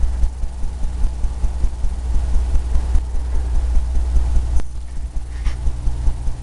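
Oil-paint brush dabbing and scrubbing against a stretched canvas, a quick run of low thumps about three a second as the easel and canvas take each stroke, with one sharp click near the end.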